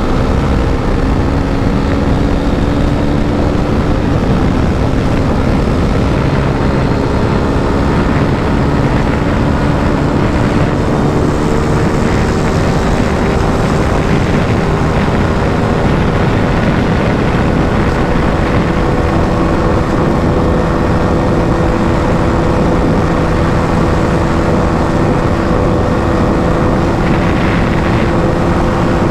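KTM RC 390's single-cylinder engine held at full throttle on a top-speed run, its note climbing slowly and steadily as speed builds toward the rev limiter, under heavy rushing wind noise.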